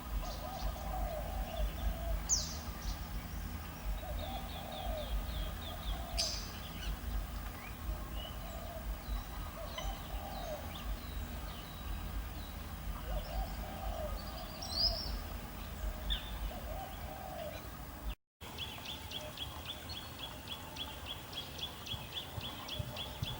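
African grey parrot calling: soft, low hooting calls repeated every few seconds, with a couple of sharp, high falling whistles and fast ticking runs of about five ticks a second. The sound cuts out briefly about three quarters of the way through.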